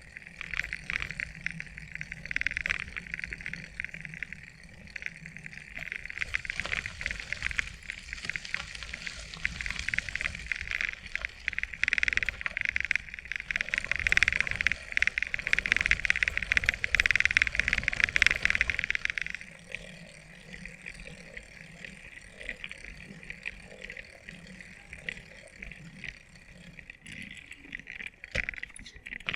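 Chorus of calling animals: a dense, rapidly pulsing buzz, louder for the first two-thirds and then fainter, over a low rumble.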